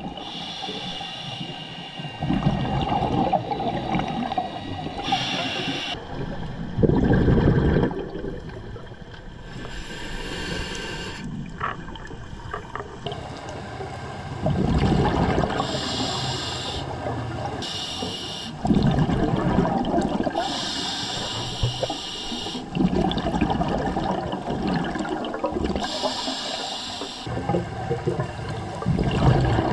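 Scuba diver breathing through a regulator underwater: short hissing inhalations alternate with longer bubbling exhalations, a breath every four to five seconds.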